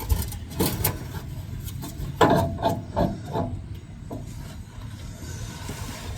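Wire brush scrubbing the threads of rusty bolts: a series of short scraping strokes, with a quick run of them about two seconds in.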